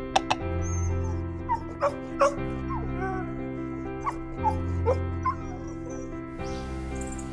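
A dog whimpering and yipping: about eight short, high calls, each bending up or down in pitch, over steady background music.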